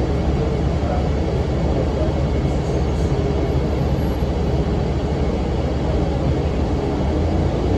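Cummins ISM diesel engine of a 2006 NABI 40-foot low-floor transit bus running, with its engine cooling fan running, heard as a steady deep rumble inside the bus.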